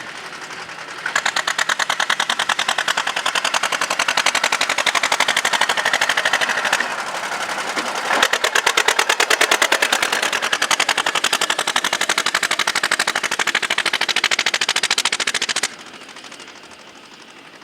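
Tractor engine running close by, a rapid even stream of exhaust beats. The beats grow louder about a second in and fall away sharply near the end.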